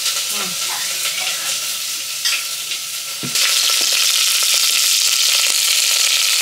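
Vegetables frying in hot oil: a steady sizzle that becomes much louder about three seconds in.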